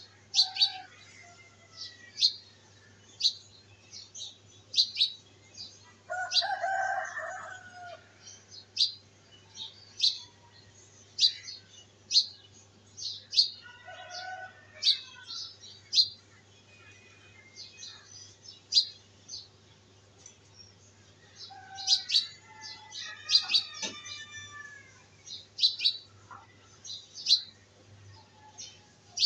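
Birds chirping: short, sharp high chirps about once a second, with a few longer, lower calls about six, fourteen and twenty-two seconds in.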